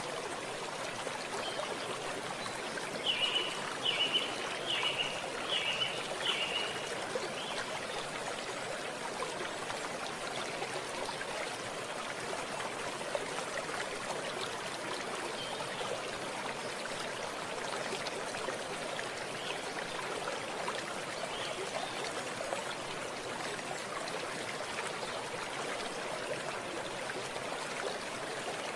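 Stream water running steadily with an even rushing and trickling. A quick run of five short, high chirps stands out a few seconds in, and a few fainter single chirps come later.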